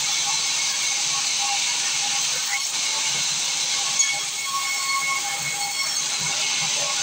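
Sawmill saw running steadily, a high hiss with a few faint steady tones, and a short sharp tick about four seconds in.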